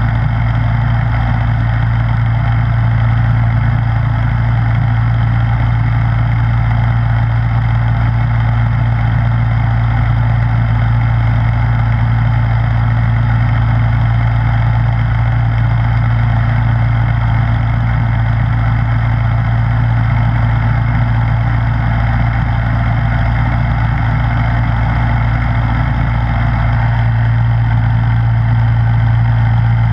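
Snowblower's gasoline engine running at a steady speed, an even hum with a whir of the machine above it, unchanging throughout.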